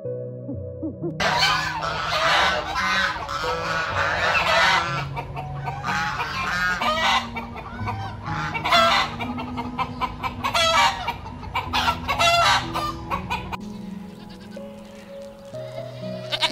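A mixed poultry flock calling: hens clucking, roosters crowing and domestic geese honking in a dense overlapping chorus that starts about a second in and dies down a few seconds before the end, over piano music. A short goat call comes right at the end.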